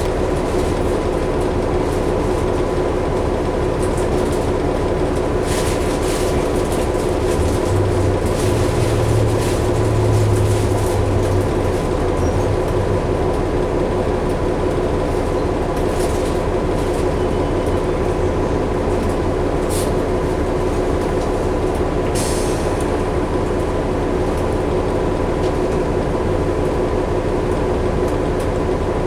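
Cabin noise inside a New Flyer D60LFR articulated diesel bus underway: a steady engine and road drone with a faint constant whine. A deeper rumble swells for a few seconds about a third of the way in, and there are a few short rattles.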